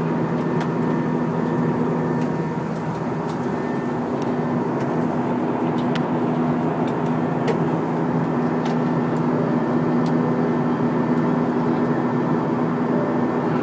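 Steady cabin noise of an airliner in flight: engine and airflow noise with a low steady hum. A few faint clicks sound through it.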